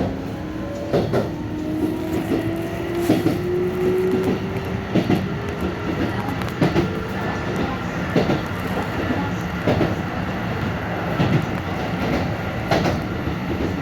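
Keikyu 1000 series electric train running. The traction motors whine in several tones that rise in pitch over the first few seconds as it accelerates. Over a steady running rumble, the wheels clack over rail joints every second or two.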